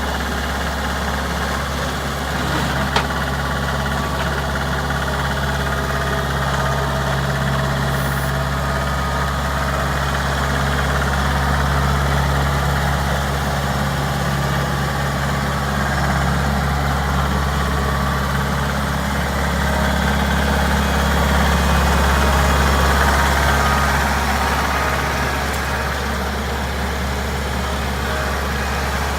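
Tractor engine idling steadily, with a slight rise and fall in level now and then. A single sharp click comes about three seconds in.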